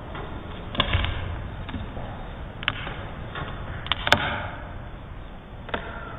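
A handful of sharp taps or knocks, about five, spread unevenly over a steady hiss; the loudest comes a little past four seconds in.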